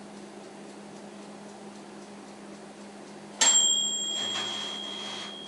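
A single bell ding from the toaster oven's mechanical timer, struck sharply about three and a half seconds in and ringing on with a clear high tone that slowly fades. A steady low hum runs beneath it.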